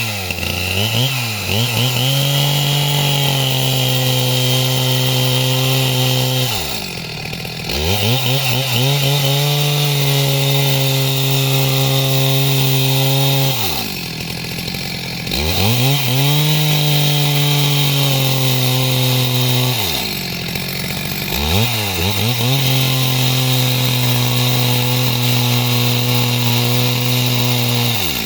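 Two-stroke chainsaw sawing timber into rafters, held at full throttle in long steady passes. Three times the throttle is eased off briefly and the engine drops in pitch, then revs back up and goes into the wood again.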